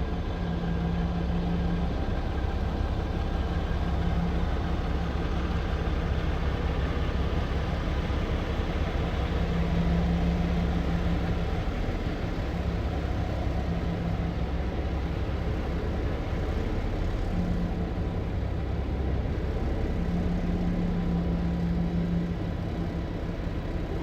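Semi-truck diesel engine idling steadily, heard from inside the cab, with a low hum that swells and fades every few seconds.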